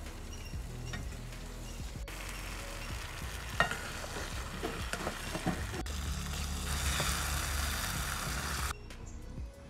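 Chicken curry sizzling in an aluminium pot as it is stirred with a wooden-handled spoon, with a few short knocks of the spoon against the pot about halfway through.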